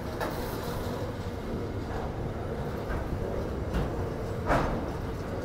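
Container freight train's wagons rolling past on the rails, a steady rumble of wheels on track broken by a few short knocks, the loudest about four and a half seconds in.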